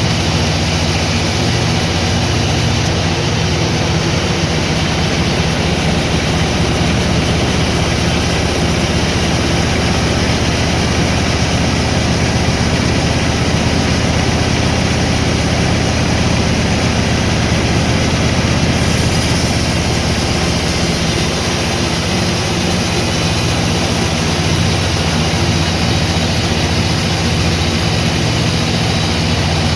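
Sawmill machinery running, a loud steady mechanical drone with a strong low hum.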